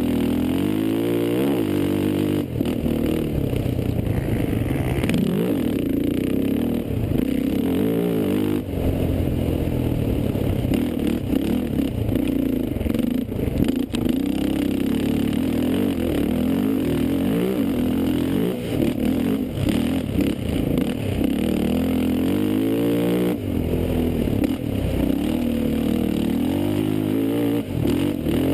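Racing quad (ATV) engines revving hard and dropping back over and over, their pitch constantly rising and falling, with several engines overlapping at times.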